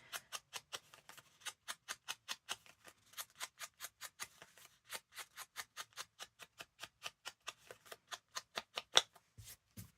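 An ink applicator worked over the paper edges of a journal page in quick, even strokes, about four to five a second, with one louder stroke near the end.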